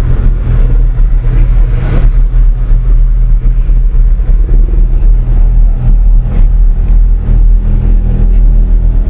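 A motor vehicle's engine running steadily nearby, a loud low rumble with a steady hum.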